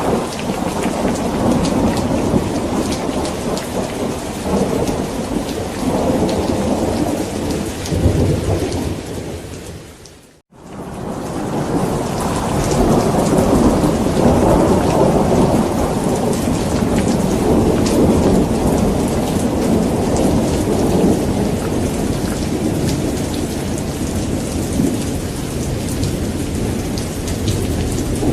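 Steady heavy rain with continuous rolling thunder rumbling underneath. About ten seconds in, the whole sound fades out to a moment of silence and fades back in.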